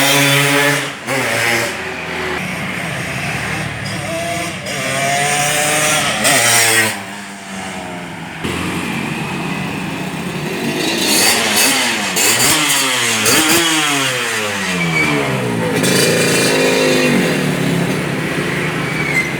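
Motorcycle running through an aftermarket lobster-style exhaust silencer, revved up and down again and again, its pitch climbing and dropping, with several quick falls in pitch a little past the middle.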